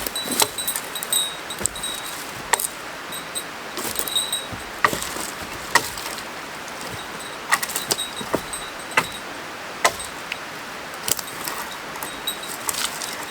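Scattered clicks and knocks of gear being handled, with a light metallic jingle.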